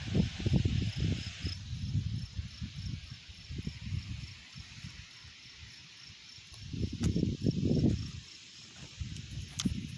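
A cricket chirping in steady, even pulses, high-pitched and faint. Gusts of wind rumble on the microphone, loudest at the start and again about seven seconds in.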